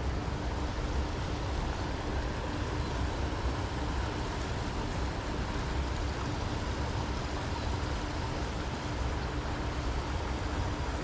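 Steady rush of flowing river water, with a low rumble of wind buffeting the microphone.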